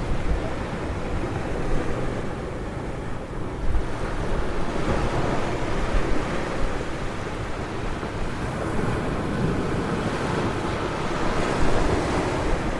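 Ocean surf breaking on a beach, the hiss of the waves swelling and ebbing every few seconds, with wind rumbling on the microphone.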